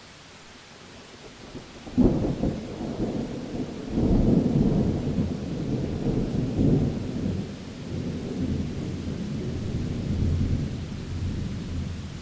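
Thunder over steady rain: a sharp crack about two seconds in, a second loud peal about two seconds later, then a long rolling rumble that slowly dies away.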